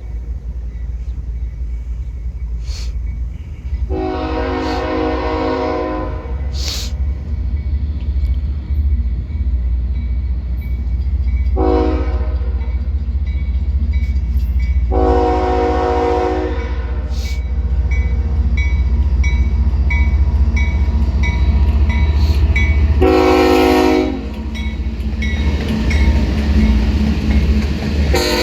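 Diesel freight locomotives running with a steady low rumble as they power up, sounding the air horn several times: two long blasts and two short ones. A regular ticking about twice a second joins in the latter part.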